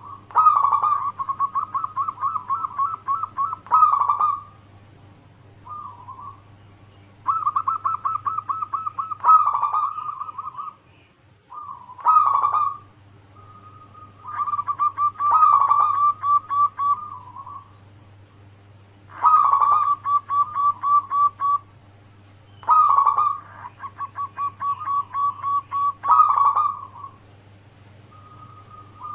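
Zebra dove (perkutut) singing its cooing song in repeated phrases of rapid, stuttering coos, each phrase one to four seconds long, with short pauses between.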